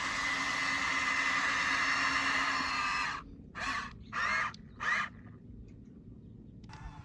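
Electric motor and gearbox of a radio-controlled construction truck running with a steady whine, which cuts off about three seconds in. Three short sounds with a rising pitch follow, about two-thirds of a second apart.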